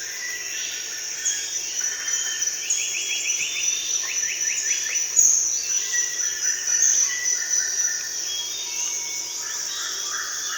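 Tropical forest ambience: a steady high-pitched insect drone with birds calling over it, including several quick trills of rapidly repeated notes and short chirps.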